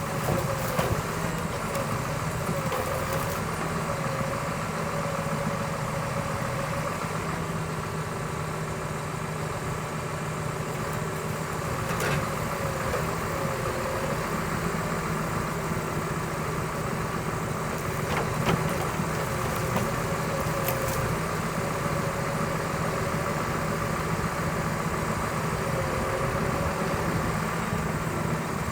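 Scania R500 timber truck's V8 diesel engine idling steadily, with a few faint clicks.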